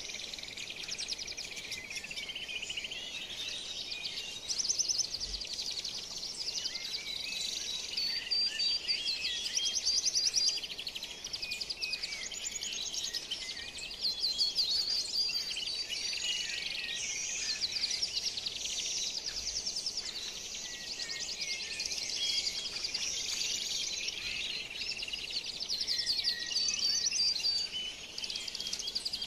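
Dense chorus of many birds chirping and trilling over one another, with several louder bursts of calls.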